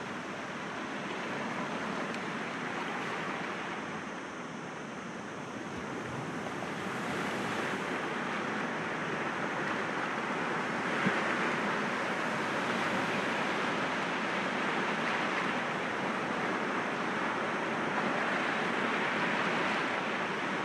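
Sea waves breaking gently against rocks: a continuous rushing wash of surf that swells and eases, growing louder about a third of the way in.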